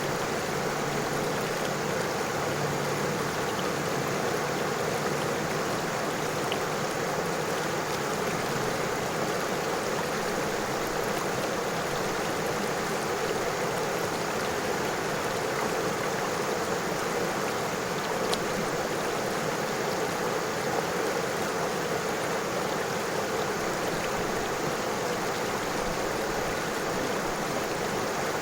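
A river flowing steadily over stones, a continuous even rush of water.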